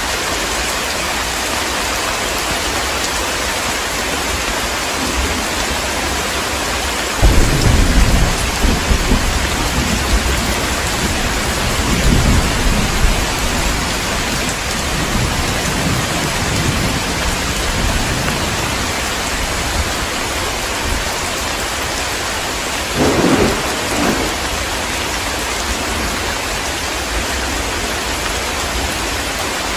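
Heavy rain falling steadily, with a sudden clap of thunder about seven seconds in that rumbles on for several seconds, and a second, shorter thunderclap a little after twenty seconds.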